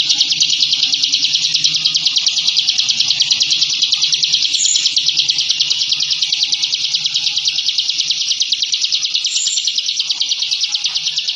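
Ciblek (a small prinia) singing its 'ngebren' song, a rapid drilling trill of dense, evenly repeated high notes that runs on without a break.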